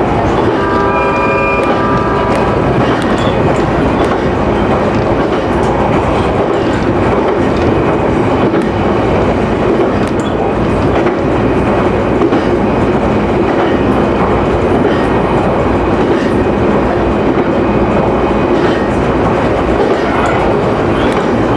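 Electric local train running along the track, heard from on board: a steady rumble of wheels on rails. Near the start a brief cluster of steady tones at several pitches sounds for about two seconds.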